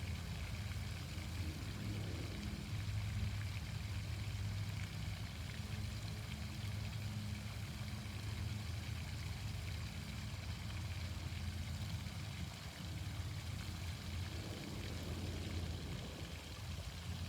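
Outdoor fountain water splashing steadily, with a low steady hum underneath.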